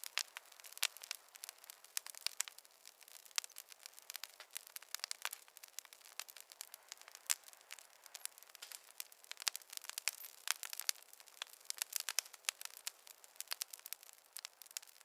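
Wood fire crackling: a steady scatter of sharp pops and snaps, several a second, over a faint hiss, with no low rumble.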